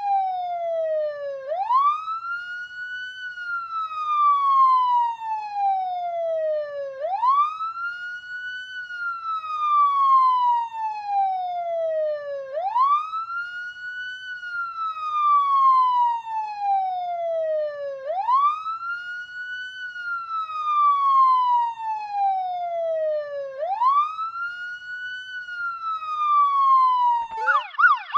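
Police car siren sounding in wail mode: each cycle sweeps quickly up in pitch, then falls slowly, repeating about every five and a half seconds. Near the end it switches to a fast yelp.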